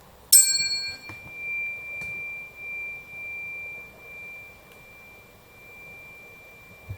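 A tuning fork struck once, a sharp ping with brief high overtones, then ringing on as a single steady high tone that swells and fades in loudness while it slowly dies away.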